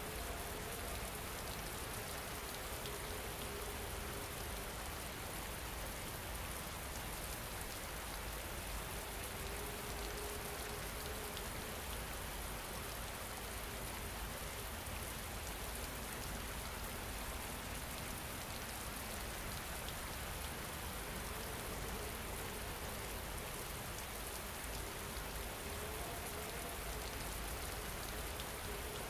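Steady rain falling on a surface, an even hiss of drops that does not change, with a faint held low tone coming and going underneath.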